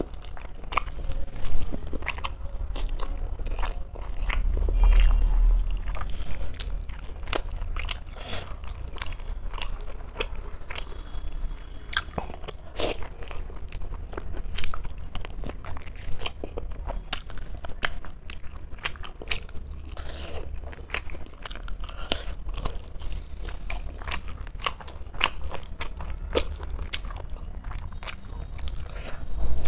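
Close-miked eating: a person biting and chewing a mouthful of rice and meat curry, with irregular wet clicks and crunches throughout.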